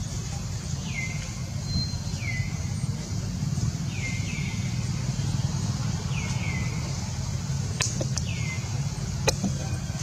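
A bird calling: short high chirps that slide down in pitch, repeated about every second and a half and often in pairs. A steady low rumble runs under them, and two sharp clicks come near the end.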